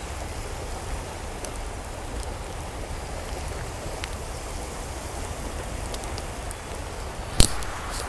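Steady rush of water, like rain falling or a stream, with scattered small drip-like clicks and one sharp, loud click a little after seven seconds in.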